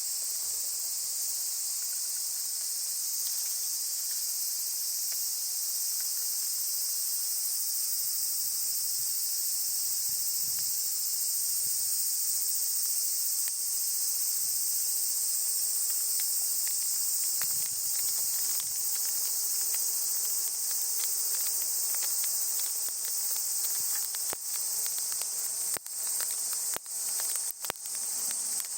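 Steady, dense high-pitched chorus of summer cicadas. A wood campfire crackles beneath it, with sharp pops coming more often near the end.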